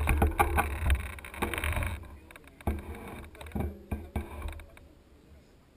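Mountain bike rattling and knocking over rough trail, with wind rumbling on the handlebar microphone. The rumble drops out about two seconds in, a few more knocks follow, and it goes quiet near the end as the bike slows.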